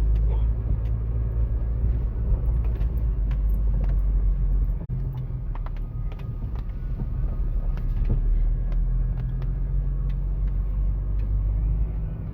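Vehicle driving along a rough dirt farm trail: steady low engine and road rumble with scattered knocks and rattles from the bumps, briefly dipping about five seconds in.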